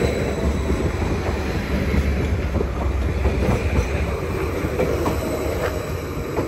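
Greater Anglia Class 755 multiple unit running into the platform, a steady loud rumble of the train and its wheels on the rails.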